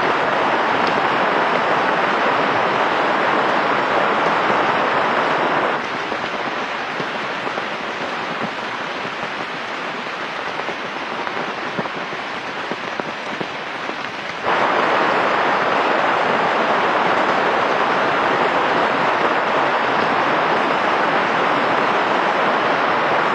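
Steady rain falling. It turns abruptly quieter about six seconds in and returns to full strength about fourteen seconds in.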